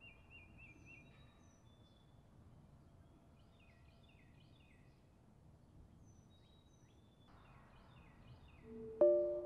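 Birds calling over a faint, steady outdoor background: a short trill and repeated quick falling chirps. Near the end, music starts with a few struck notes, louder than the birds.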